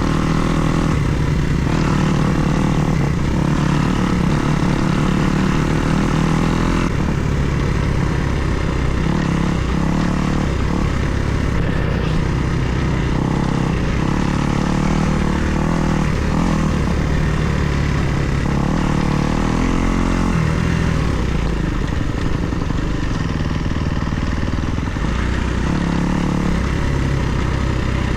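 2024 Kawasaki KX250 motocross bike's single-cylinder four-stroke engine running while being ridden, its revs rising and falling with the throttle.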